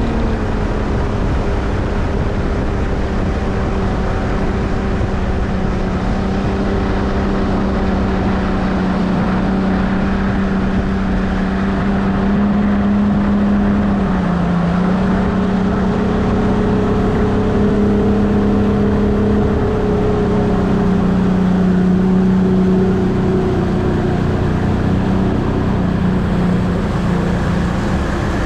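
Mercury 150 Black Max V6 two-stroke outboard running steadily over a constant rush of noise. Its pitch dips briefly about halfway through, then rises a little.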